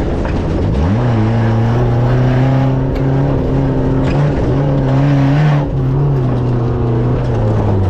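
Off-road race car engine pulling hard: the revs rise about a second in, hold steady under load with small wavers, then drop near the end.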